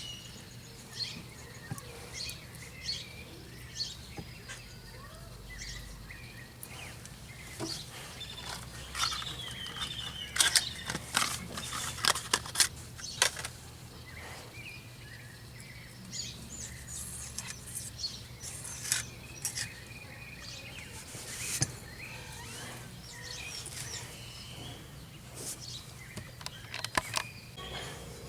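Birds chirping, with scattered sharp clicks and taps that come thickest about ten to thirteen seconds in.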